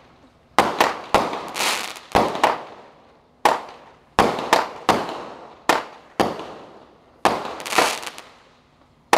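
Aerial fireworks bursting: about a dozen sharp bangs at irregular intervals, each trailing off in a long echo.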